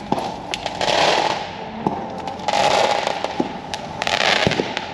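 Consumer fireworks going off: three surges of hissing, each about a second long, with sharp cracks and pops scattered between them.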